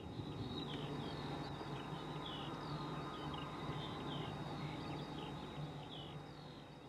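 Birds singing outdoors, a rapid run of short chirping notes over a faint steady background hum, fading out near the end.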